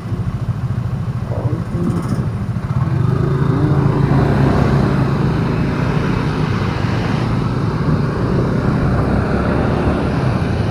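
Running vehicle engine and road noise from driving in city traffic; the engine note grows louder about three seconds in, as if pulling away, and then holds steady.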